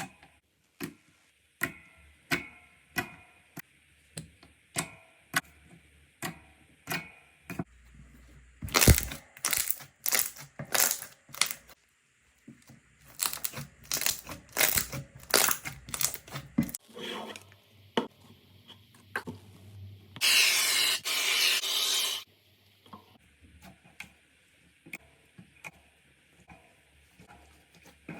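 Slime being poked, squeezed and stretched by hand: a string of short sharp clicks and pops, with a run of louder snapping crackles around the middle and about two seconds of steady crackling a little past two-thirds of the way through.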